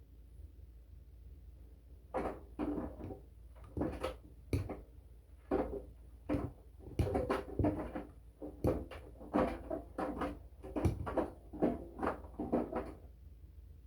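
Washing machine in its wash cycle: the drum turns and wet laundry and water slosh and flop over about two to three times a second for some eleven seconds, then the drum pauses, over a low steady hum.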